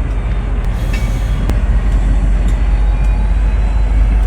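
Slow-moving freight train of refrigerator cars rolling past: a steady low rumble with occasional sharp clicks.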